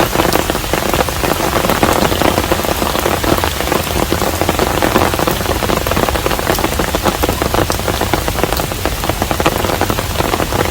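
Steady rain falling on a traditional Korean hanok, an even wash thick with the hits of countless individual drops.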